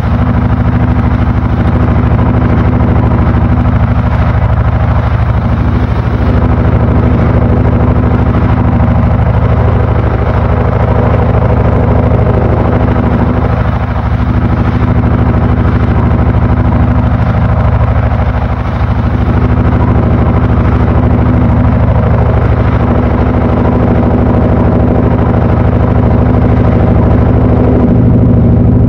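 Panasonic NA-FA80H8 top-loading washing machine running late in its wash cycle: a loud, steady motor hum with a constant drone, without pause.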